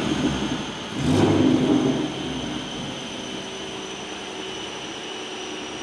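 Twin-turbo 3.7 L Cyclone V6 Mustang on a chassis dyno coming off a full-throttle pull: the engine drops off throttle, gives a sharp crack and a short loud burst about a second in, then settles into a steady lower run with a thin high whine.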